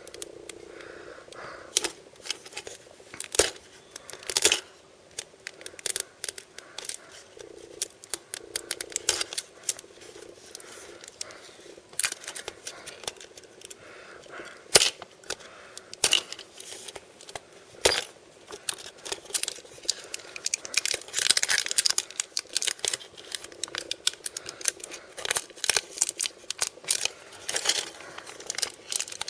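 Packaging of surprise blind bags and boxes being handled and opened: plastic and foil crinkling and tearing, with many sharp clicks and taps, the crinkling busiest past the middle.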